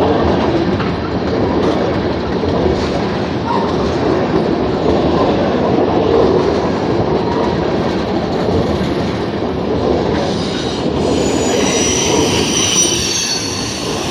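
Freight cars of a manifest train rolling past close by, with a steady rumble and clatter of steel wheels on rail. About three-quarters of the way in, the wheels start squealing in high-pitched screeches.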